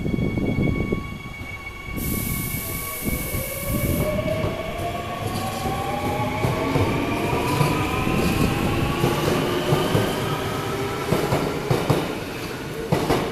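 Seoul Metro Line 9 9000-series electric train pulling out of the station: a loud hiss of air for about two seconds, then its traction motors whine, several tones rising steadily in pitch as it accelerates. Near the end the wheels clack over rail joints.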